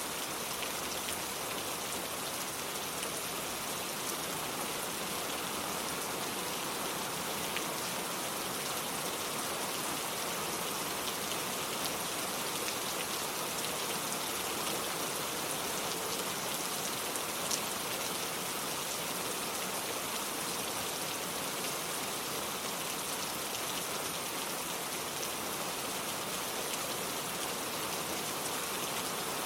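Steady rain falling, an even hiss with scattered drops ticking on a hard surface.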